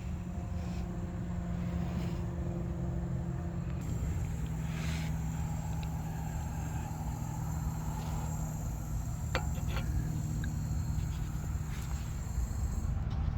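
Audi Q5's turbocharged 2.0 TFSI four-cylinder engine running steadily with a constant low hum, with a few light clicks about nine seconds in.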